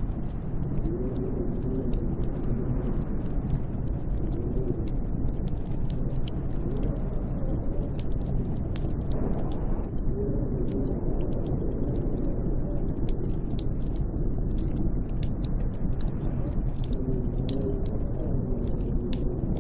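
Snowstorm wind blowing steadily, with a low howl that rises and falls in pitch every few seconds, and scattered sharp crackling clicks over it.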